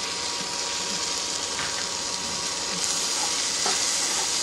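Chopped tomato and green chilli sizzling in hot oil with sliced shallots in a frying pan, a steady hiss that grows louder about three seconds in as the tomato's moisture steams off.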